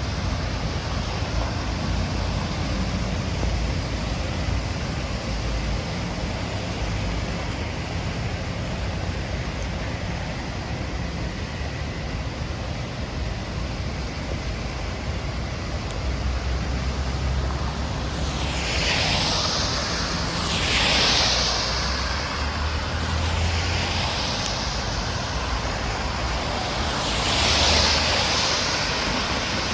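Steady rainy street noise with a low rumble; from about two-thirds in, several hissing swooshes of vehicles passing on wet road.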